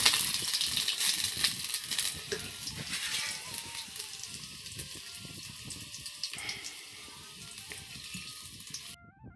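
Garlic and ajwain (carom seeds) sizzling and crackling as they hit hot oil in a kadhai for a tadka. The sizzle is loud at first and fades gradually, then stops abruptly near the end.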